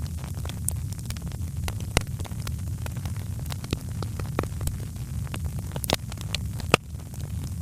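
Wood fire in a fireplace crackling, with irregular sharp pops and snaps over a steady low rumble of the flames; one of the loudest pops comes near the end.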